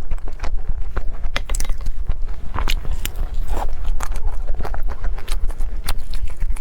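Close-miked chewing and biting of food, with many irregular sharp clicks.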